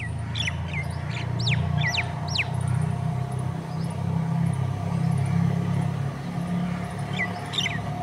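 Birds chirping: a quick run of short, downward-sliding chirps in the first two and a half seconds and a few more near the end. A steady low rumble lies under them throughout.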